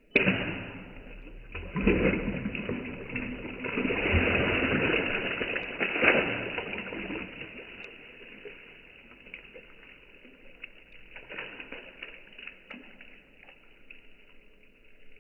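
Broken roof-tile shards dropping into a bucket full of rainwater, splashing and sloshing. There are sharp hits at the start, about two seconds in and about six seconds in, then the sound dies down to smaller splashes.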